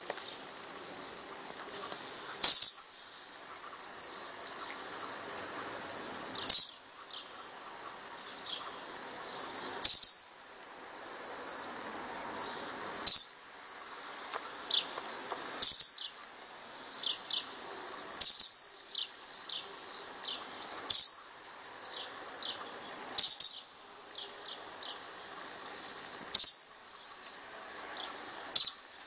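Small birds chirping: a loud, sharp, high chirp about every two to three seconds, some ten in all, with softer chirps and calls in between.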